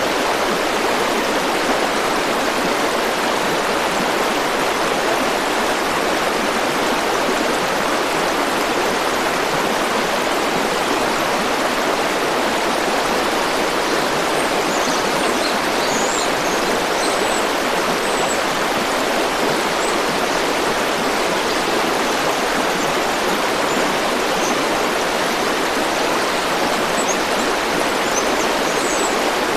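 River water flowing and rushing steadily in an even, unbroken wash. A few faint high chirps come and go over it in the second half.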